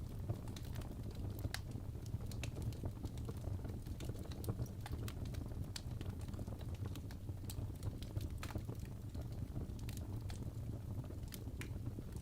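Fire burning in a fireplace: irregular crackles and pops over a steady low rumble of the flames.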